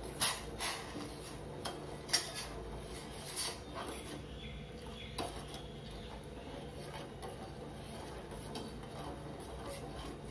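A spoon clinking against a metal pan while sugar syrup is stirred on the stove. Several sharp clinks come in the first few seconds, then only a low steady hum.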